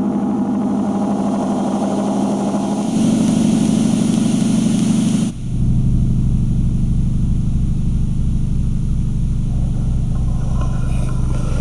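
Giant spring on a wooden beam picked up through a contact mic, giving a dense low drone. About three seconds in, a bright hiss joins it. A couple of seconds later the sound cuts off abruptly into a steadier low hum with a throb pulsing a little under three times a second.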